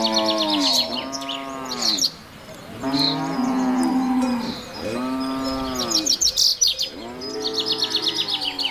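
Cattle mooing: about five long, drawn-out moos that rise and fall in pitch, with small birds chirping in the background.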